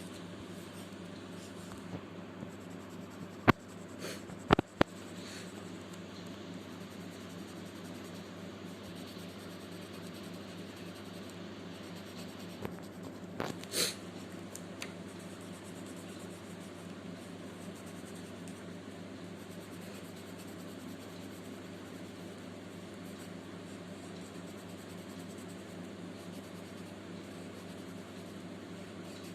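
Pencil scratching on paper while sketching, over a steady low room hum. Three sharp clicks come about three and a half to five seconds in, and a brief louder scrape or rustle comes about 14 seconds in.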